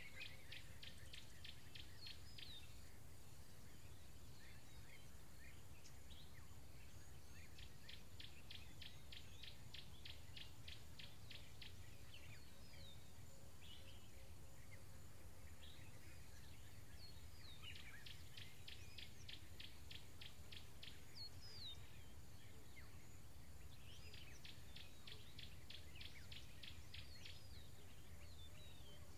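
Birds calling in dry bushland: one repeats a short high note about four times a second in several runs, among scattered chirps and whistles from others, over a low steady rumble.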